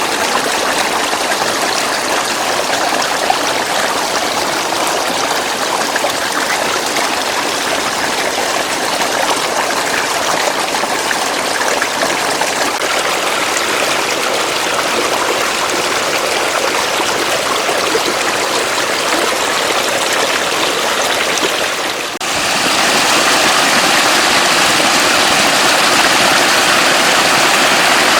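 Floodwater running steadily, a continuous dense rush of water. About three-quarters of the way through it dips for a moment and carries on slightly louder and brighter.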